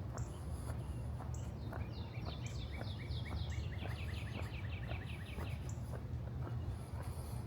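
Strong wind rumbling on the microphone, with walking footsteps about two a second. From about two seconds in, a songbird sings a rapid trill of repeated high chirps lasting about four seconds.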